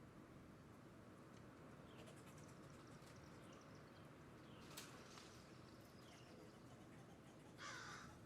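Faint wild bird calls over a low steady background noise: scattered short chirps in the middle and a louder, harsh call near the end.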